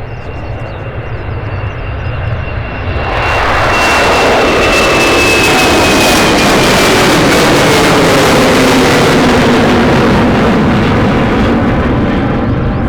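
Jet airliner's engines at takeoff power passing close by. The roar swells sharply about three seconds in. A high engine whine and lower tones slowly fall in pitch as it goes by.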